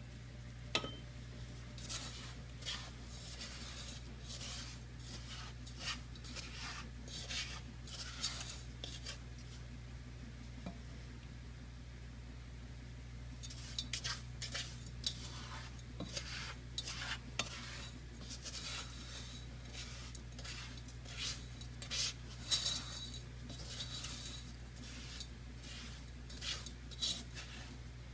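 A utensil stirring and scraping in a pan on the stove, in scattered soft strokes with busier stretches midway and near the end, over a steady low hum.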